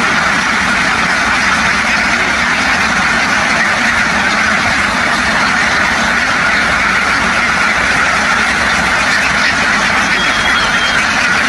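Large flock of domestic ducks quacking all together in a dense, steady din.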